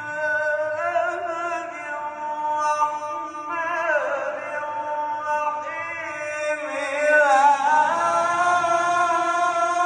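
A man's voice chanting in a melismatic Arabic religious style, drawing out long notes with gliding ornaments.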